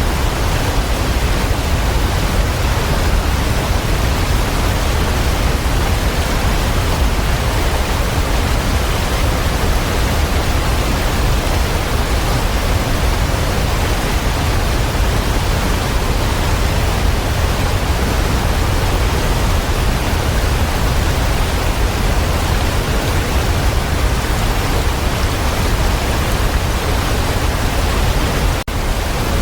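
Waterfall rushing steadily, a dense even roar of falling water, with a momentary dropout near the end.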